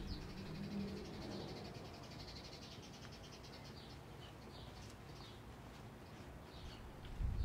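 Small birds singing faintly: a rapid high trill for the first couple of seconds, then short separate chirps. A low thump comes near the end.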